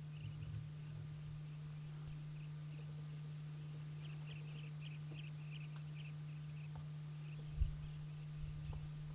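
A steady low hum, with faint clusters of high, quick chirps through the middle and a single low thump near the end.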